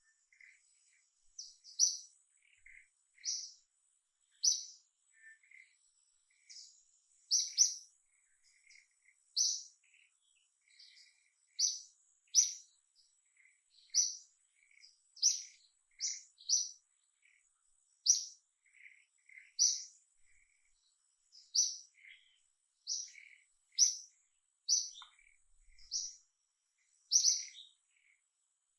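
A bird calling: short, sharp high-pitched chirps repeated about once every second or so, with softer, lower chirps in between. A faint steady high-pitched whine sits underneath.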